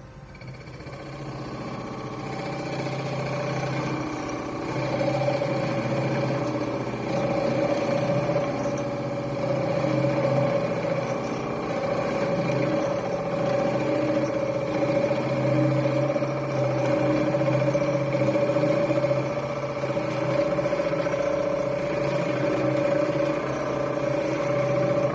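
Wood lathe running with a steady motor hum and a hiss over it. It grows louder over the first few seconds, then holds steady with small rises and falls.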